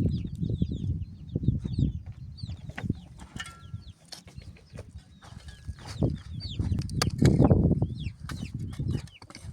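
Chickens clucking and small birds giving many short high chirps, over a low rustling clatter that comes and goes. The clatter is loudest at the start and again around seven seconds in.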